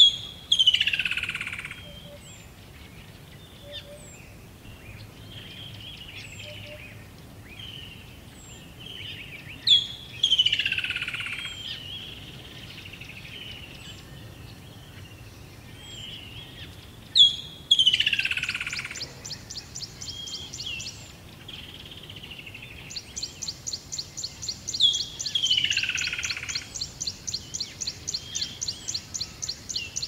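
Birds calling: a loud call, a sharp high note dropping into a falling whistle about a second and a half long, comes four times at roughly seven- to eight-second intervals over softer chirps. In the second half a fast, even series of high notes, about four a second, runs alongside.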